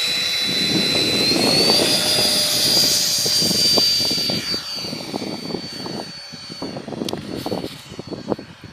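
Electric ducted-fan whine of an HSD Viper RC model jet. The high whine rises in pitch about a second in, holds steady, then fades away after about four seconds. Gusty wind rumbles on the microphone underneath.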